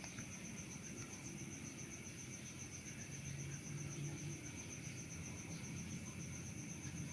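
Cosmos 56-inch industrial ceiling fan running steadily with a low motor hum. Over it sits a high, rapidly and evenly pulsing chirp.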